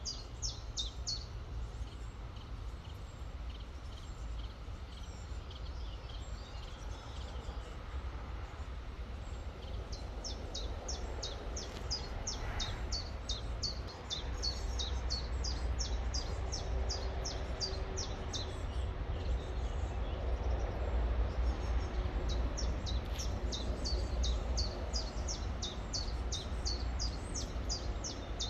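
Gently flowing river with woodland birds singing over it, one bird repeating quick, high notes in long runs that stop and start. A steady low rumble runs underneath.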